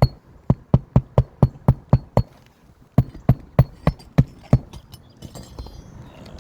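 Hand hammer driving roofing nails into an asphalt shingle: two runs of sharp blows at about four a second, the second starting after a short pause about three seconds in.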